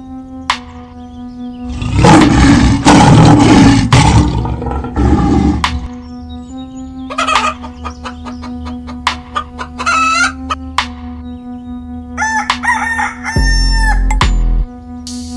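Chickens: a long, loud rooster crow, then a quick run of hen clucks, and more calls about twelve seconds in, over a steady droning tone of background music.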